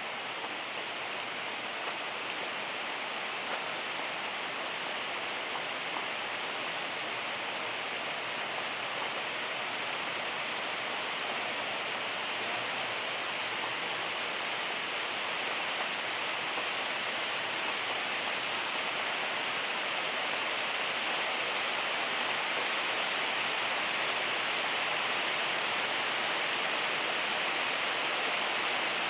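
Steady rain falling, an even hiss of water that grows slightly louder toward the end.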